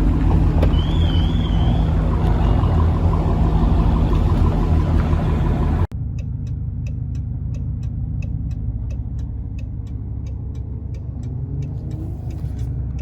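A car engine running as a steady low rumble. It cuts off abruptly about six seconds in to a quieter engine drone with an even, fast ticking of about three ticks a second.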